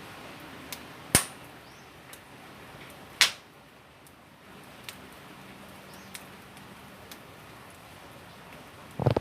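Wood fire crackling: scattered small ticks and two loud, sharp pops, about a second in and about three seconds in, with a short knock right at the end.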